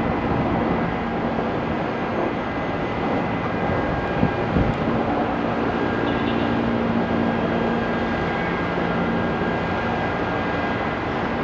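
Steady drone of an aircraft engine with a constant low hum, running unchanged throughout.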